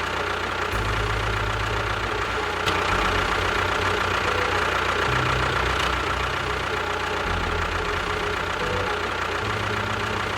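A motor running steadily, its low hum stepping to a new pitch every couple of seconds.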